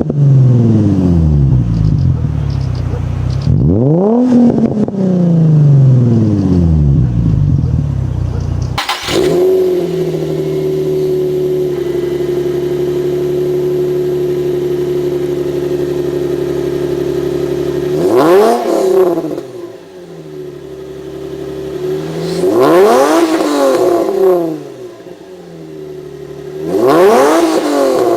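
Nissan 350Z 3.5-litre V6 with an aftermarket exhaust, revved up and falling back. About nine seconds in, the sound changes abruptly to another 350Z idling steadily, which is then revved three times.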